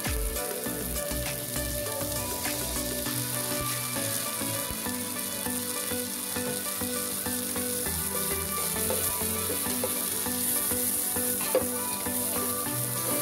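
Chopped red onion, garlic and chillies sizzling in hot oil in a pot, with a steady crackling hiss. Near the end they are stirred, with a sharp click of the utensil against the pot.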